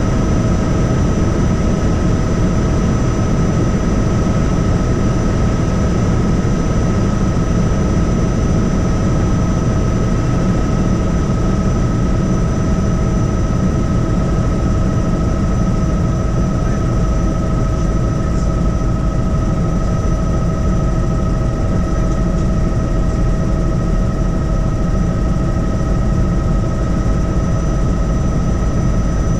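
Helicopter in steady flight heard from inside the cabin: a constant deep rotor and engine noise with a steady high-pitched whine over it.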